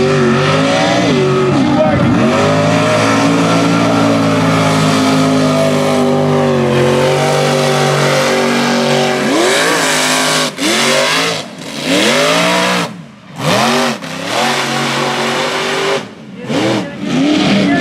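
Mega truck engine running hard, its pitch holding high with brief dips. It then climbs and falls again and again as the throttle is worked, breaking off suddenly three times in the second half.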